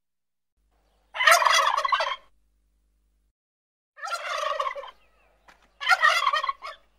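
Domestic turkey toms gobbling: three loud gobbles, each about a second long, about a second and a half apart.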